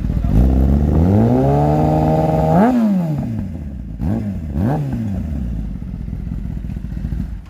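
Kawasaki ZX-10R inline-four superbike with an aftermarket full-system exhaust, revved from idle. One long rev climbs and holds for about a second before dropping back. Two quick throttle blips follow about halfway through, and the engine settles back to idle.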